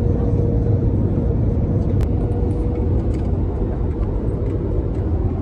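Steady low rumble inside a jet airliner's cabin, from the engines and the air rushing past the fuselage, with a faint steady hum over it. A single sharp click sounds about two seconds in.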